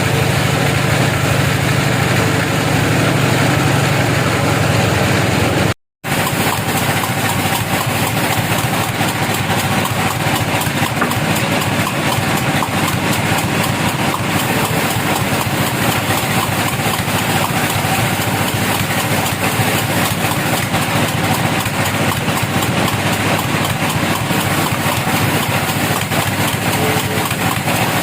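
Sawmill machinery running steadily, a continuous engine drone with no change in speed. The sound drops out completely for a moment about six seconds in, then resumes unchanged.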